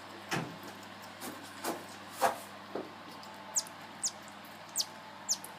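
A few sharp knocks, then marmoset monkeys giving four short, high-pitched calls, each falling steeply in pitch.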